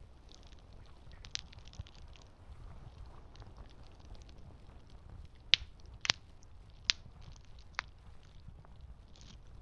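Campfire crackling, with about five sharp pops from the burning wood, the loudest about five and a half seconds in.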